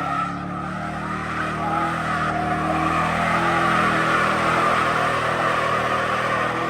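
Car engine held at high revs with tyres squealing in a sustained skid, as a car drifts or does donuts.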